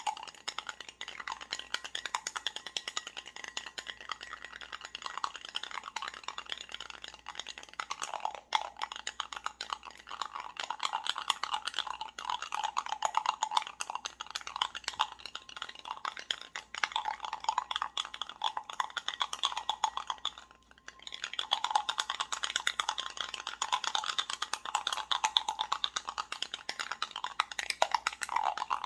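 Continuous fast rattling and clinking of small hard objects, with a brief pause about two-thirds of the way through.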